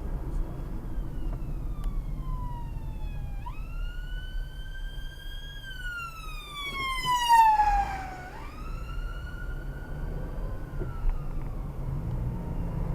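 Emergency vehicle siren sounding a slow wail as it passes, pitch sliding down and jumping back up several times, loudest about seven seconds in and fading after that. A steady low vehicle rumble runs underneath.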